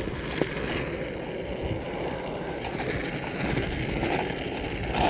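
Steady rushing noise of riding a bicycle: wind and tyres rolling, with one short click about half a second in.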